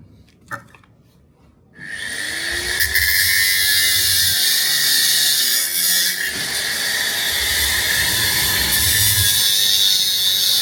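Power grinder starting up about two seconds in, its pitch rising as it spins up, then running steadily with a loud, high grinding hiss, typical of metal being ground. A few light clicks come before it starts.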